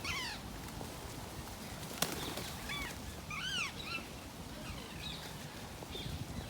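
Parakeets squawking, one harsh arched call at the start and a quick cluster of calls about three to four seconds in, with fainter calls later. There is a single sharp click about two seconds in.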